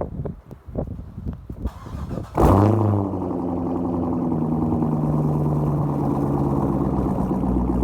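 A few scattered knocks and thumps, then about two and a half seconds in a Chevrolet Corvette's V8 starts from cold. The revs flare briefly, fall and settle into a steady fast idle.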